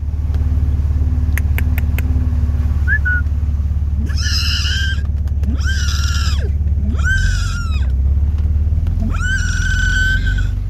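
A 4x4's engine running steadily, with four loud, high-pitched, drawn-out calls over it, each about a second long, the last the longest. A few sharp clicks come about a second and a half in.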